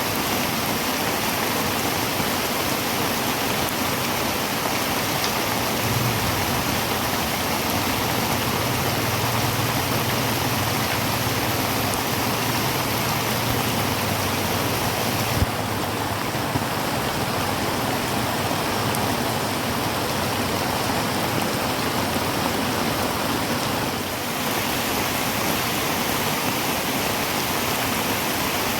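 Heavy rain falling on a tin roof, a steady dense hiss with no let-up. A faint low hum sits underneath for several seconds in the middle, and there is a single click about halfway through.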